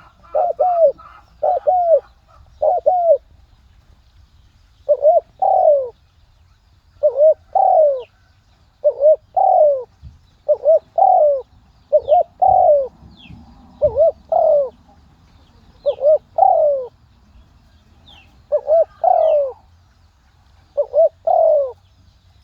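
Dove cooing over and over: a quick run of coos at first, then after a short pause a steady series of two-note coos, a short note followed by a longer falling one, about every two seconds. Faint high chirps of small birds come in now and then.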